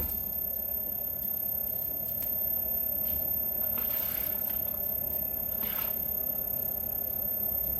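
Myford Super 7B lathe running steadily while turning a metal part, a constant machine hum. Two brief hissy sweeps from the cut come about midway.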